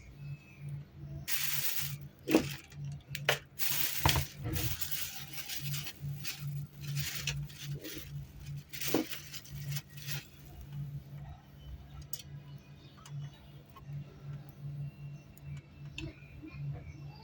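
Clicks, knocks and short rustles of hard objects being handled, busiest in the first half, over a low hum that pulses about twice a second.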